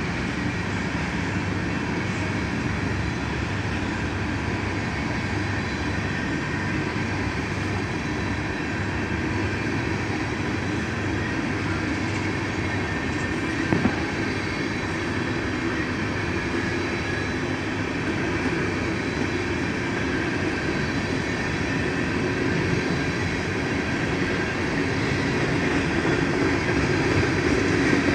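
Coal train hopper cars rolling past on the rails: a steady rumble of wheels and trucks, with one sharp click about halfway through, growing louder in the last few seconds.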